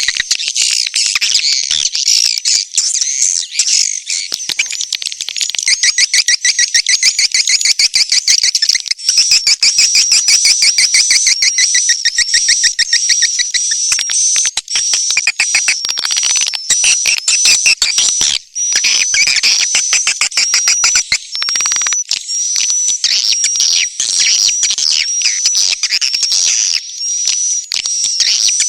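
Edible-nest swiftlet calls: dense, rapid, high-pitched twittering chirps, many notes a second with hardly a break. This is a swiftlet lure recording played to call the birds into a swiftlet house.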